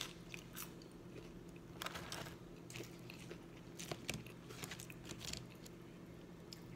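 Close-up mouth sounds of someone chewing and biting French fries: soft, scattered crunches and wet mouth clicks, with a few louder bites about two seconds in and again around four and five seconds, over a faint steady hum.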